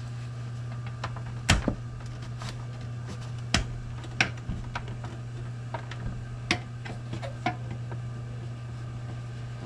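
A handful of sharp, scattered clicks and taps of a screwdriver and screws against a metal computer case as a drive is screwed into its bay, over a steady low hum.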